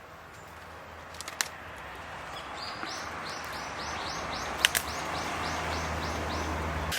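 A rushing, hissing noise that grows steadily louder, over a low steady hum. Partway through, a bird calls in a quick series of short high notes, about three a second, that stop shortly before the end.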